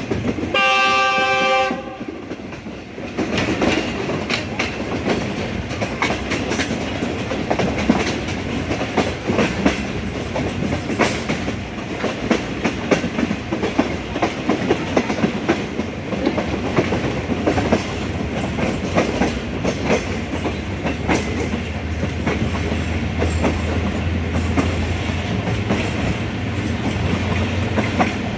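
Passenger express train with a brief horn blast of about a second near the start. Then comes a steady running rumble with the clickety-clack of wheels over the rail joints. A low drone builds in over the last few seconds.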